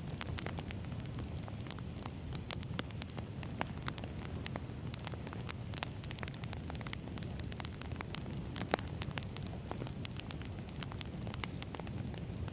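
Wood fire burning: a steady low rumble of flames with irregular sharp crackles and pops of burning logs, one louder pop late on.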